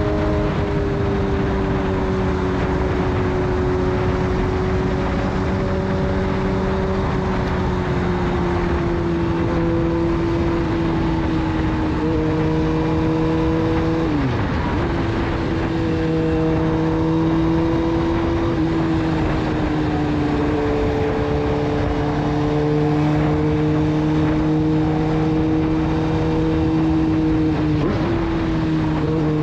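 Suzuki GSX-R 600 inline-four with a full Yoshimura exhaust cruising steadily at highway speed, its note drifting slightly in pitch and dipping briefly twice, about halfway through and near the end, over a rush of wind noise.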